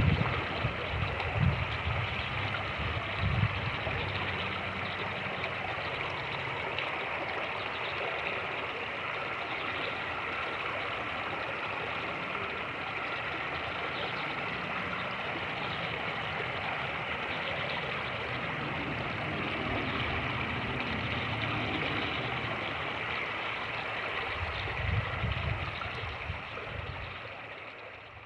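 Fast-moving creek water rushing steadily. Low wind buffeting on the microphone comes and goes, strongest at the start and again near the end, and the sound fades out at the very end.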